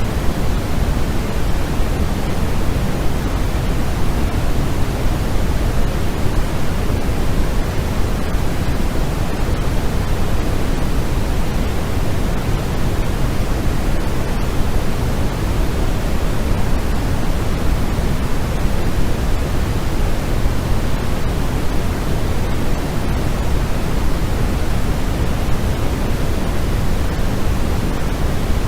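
Steady synthetic noise of the sleep-aid "white noise" kind, an even hiss weighted toward low pitches, unchanging throughout.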